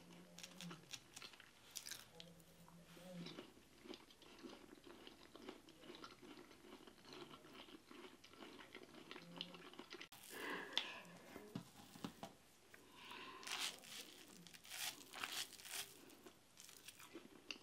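Faint close-miked chewing and mouth smacks of someone eating injera with vegetable stews by hand, louder for a moment about ten seconds in and again around fourteen to sixteen seconds.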